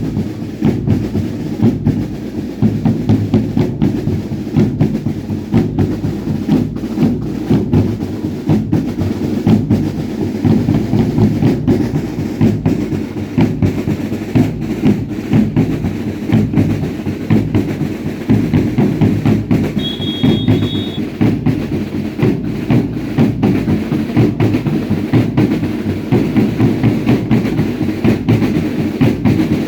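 Drums of a baile indio dance troupe beating a steady, driving rhythm. A short, high two-note whistle sounds once, about two-thirds of the way through.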